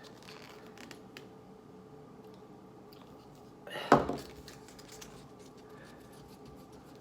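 Quiet handling of epoxy and a cardboard mixing surface, small clicks over a faint steady hum, with one sharp knock about four seconds in.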